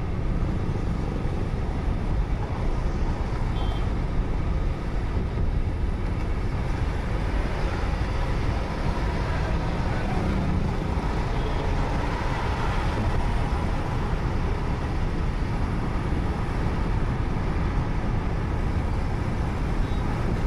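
Steady low rumble of a car driving: road and engine noise with no break or change.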